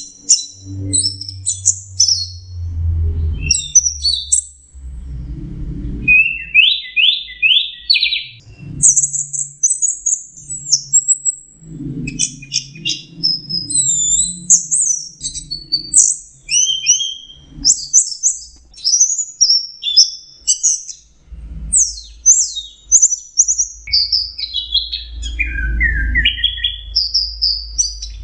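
Orange-headed thrush singing a fast, varied song of high whistles, trills and rapid note series, phrase after phrase with only brief gaps. A low rumble comes and goes underneath.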